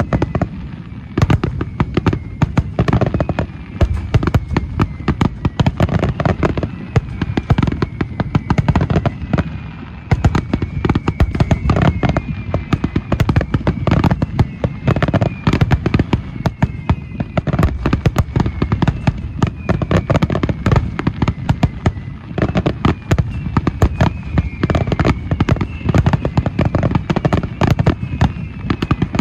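Fireworks display in a dense, continuous barrage of bursts and crackling, with many falling whistles heard over the bangs.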